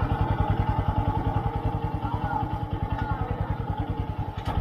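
Small motorcycle engine running steadily at low revs, a rapid even putter of about a dozen beats a second. Two sharp clicks come near the end.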